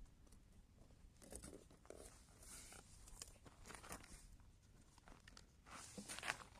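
Near silence with a few faint, scattered rustling and crunching handling noises, a little more frequent near the end.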